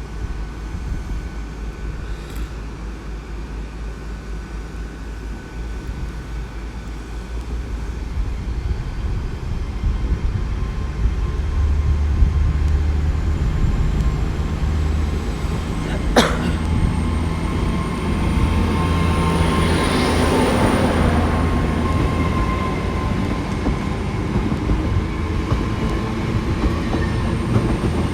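Great Western Railway Intercity Express Train pulling out under diesel power. Its underfloor engines build to a low rumble, a thin high whine rises in pitch as it gathers speed and then holds, and there is a sharp click about sixteen seconds in.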